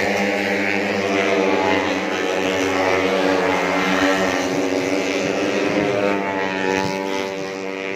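Several four-stroke 150cc underbone racing motorcycles running at high revs, their engine notes overlapping and shifting up and down in pitch.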